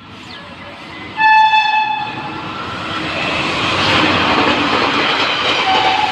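An Indian Railways express approaching at speed: the locomotive horn blasts once for about a second, the loudest sound, then the rumble and clatter of the train on the track grows steadily louder. A quieter steady horn note starts near the end.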